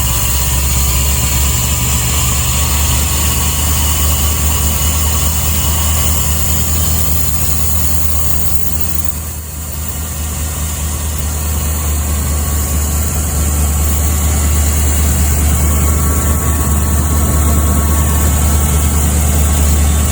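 1992 Ford F-150 engine running at a steady idle just after its first start in years, fed by a newly fitted aftermarket EFI kit. The level dips briefly about halfway through and then climbs back a little louder.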